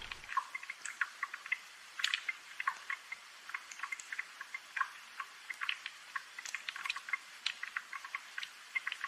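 Rain dripping and pattering: irregular light taps and drips over a soft hiss, thin-sounding with no low rumble.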